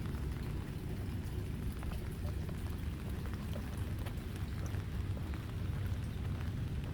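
Steady rain with scattered drops ticking, over a continuous low rumble.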